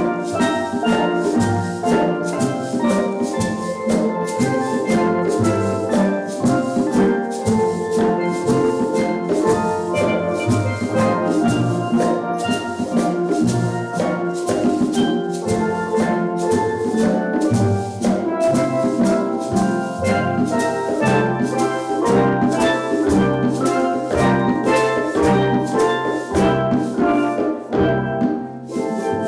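Steel drum band playing: quick struck notes over a line of low bass-pan notes, with percussion keeping time. The music dips briefly near the end.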